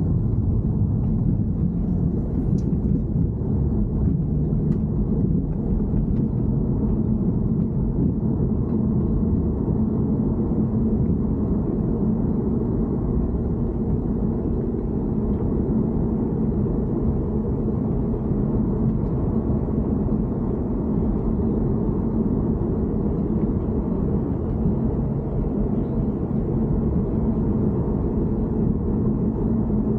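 BMW E90 3 Series running, a steady low rumble with no break or change, the sound the owner is recording to catch an abnormal noise.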